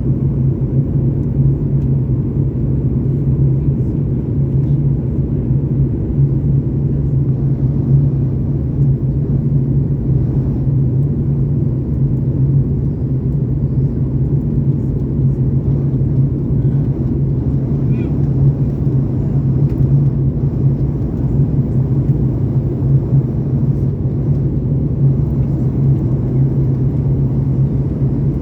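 Steady drone of a Boeing 737 MAX 8 in flight on approach, heard inside the passenger cabin: engine and airflow noise with a strong, steady low hum.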